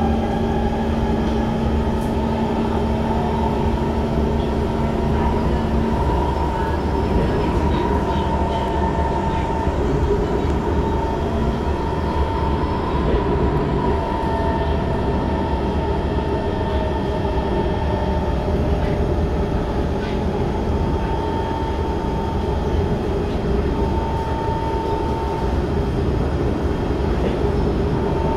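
Inside an SMRT C151 train running on the East West Line: steady rumble of the wheels on the rails. A low steady hum stops about six seconds in, and a higher faint tone comes and goes.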